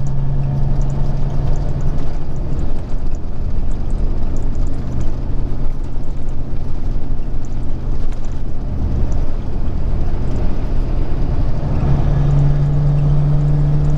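Inside the cab of a Peterbilt 379 semi truck under way: a steady engine drone and road noise. A low hum stands out at the start, fades about two seconds in, and returns strongly about twelve seconds in.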